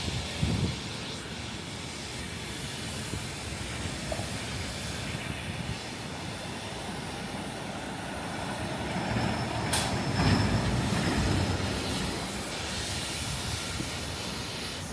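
City street ambience: a steady hiss of traffic, swelling into a louder low rumble as a vehicle passes about two-thirds through, with one sharp click near its loudest point.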